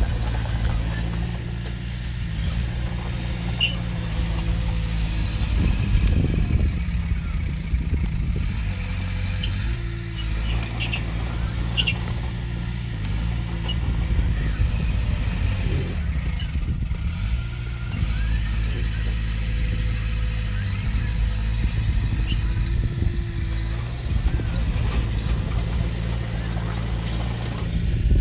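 Heavy-equipment diesel engine running steadily at work, with scattered short high squeaks and clicks over it.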